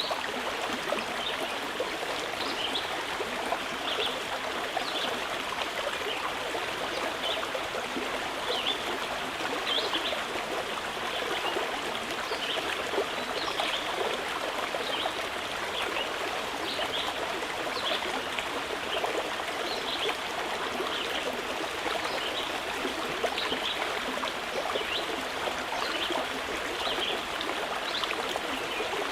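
Mountain river flowing steadily: an even rush of water with brief high sounds scattered through it.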